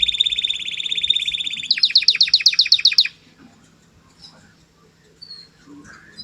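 Canary singing: a fast, even trill, then a run of about ten quick downward-sweeping notes at roughly eight a second that stops abruptly about three seconds in, followed by a few faint chirps.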